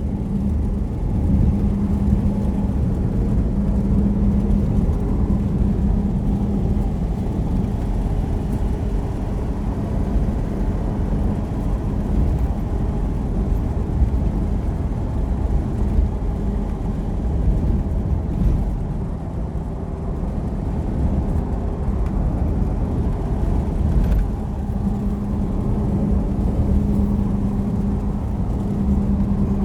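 A motor vehicle driving, with a steady low engine and road rumble and a droning hum that is stronger near the start and end.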